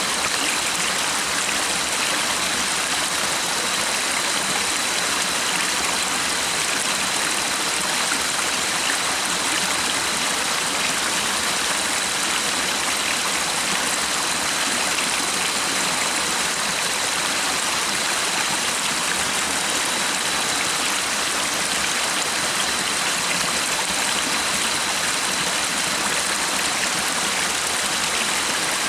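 Stream water running steadily with an even rushing sound, and a faint steady high-pitched tone underneath it.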